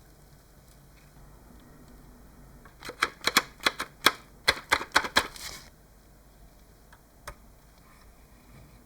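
A quick, irregular run of about a dozen sharp clicks lasting nearly three seconds, then a single click a couple of seconds later.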